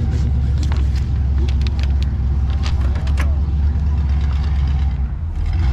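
Car engine running close by: a steady low rumble that lasts throughout, with a few light clicks in the middle.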